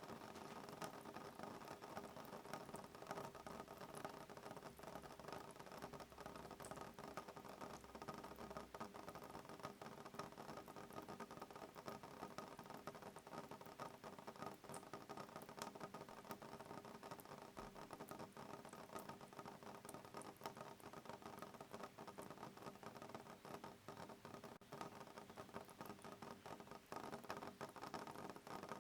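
Soft rain pattering steadily and faintly on window glass: a dense run of fine drop ticks, with no thunder.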